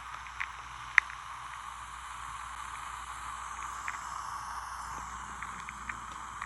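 Steady hiss with a few sharp clicks, the loudest click about a second in.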